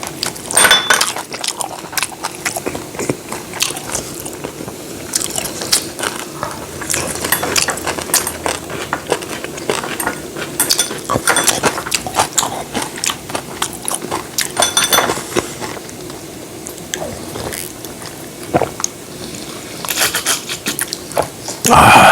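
Close-up eating sounds: chewing, crunching and wet slurping, with many short clicks of cutlery against dishes and a few brief ringing clinks. A louder burst comes near the end.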